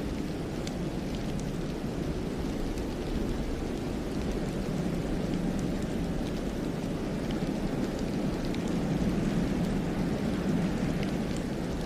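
Steady low rumble of wind, swelling slightly near the end, with a few faint ticks scattered over it.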